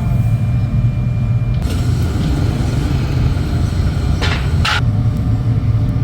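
Heavy factory machinery running with a steady low hum. Two short hissing bursts come about four seconds in, half a second apart.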